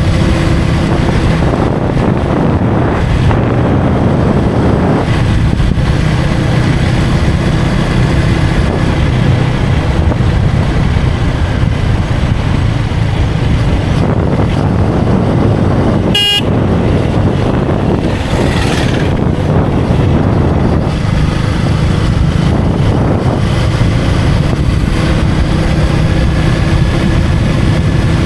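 KTM Duke 250's single-cylinder engine running at a steady cruise, with wind rushing over the microphone. A vehicle horn gives one short toot about 16 seconds in.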